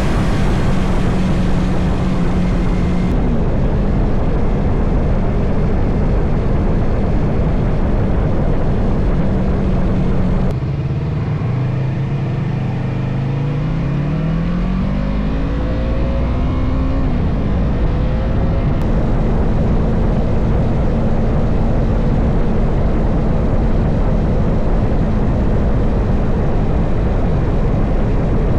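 Motorcycle engine running at a steady cruise under a heavy rush of wind noise. About ten seconds in the engine note drops, then climbs steadily for several seconds as the bike accelerates, before settling back to a steady cruise.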